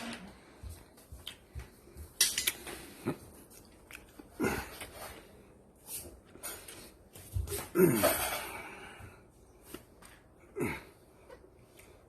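Kitchen clatter: scattered clinks and knocks of dishes and utensils, with a few short sounds that fall in pitch, the loudest about eight seconds in.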